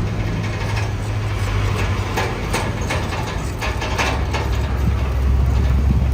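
Bulldozer's diesel engine running steadily, with irregular metallic clanks and rattles over it.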